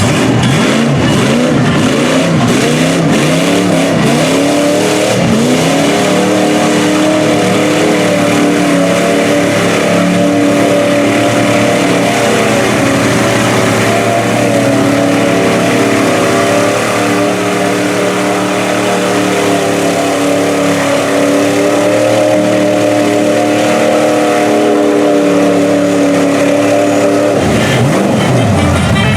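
Mud-bog truck engine revving hard: the revs rise and fall for the first few seconds, then hold steady at high rpm for about twenty seconds before dropping off near the end.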